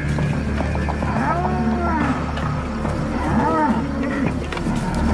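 Bulls bellowing: two drawn-out moos that rise and fall in pitch, one about a second in and another a little past the middle, over a steady low rumble.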